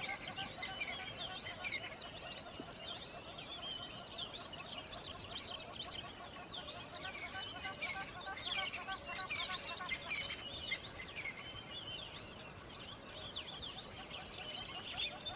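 A flock of birds calling together: a steady, dense chatter of many overlapping chirps and calls.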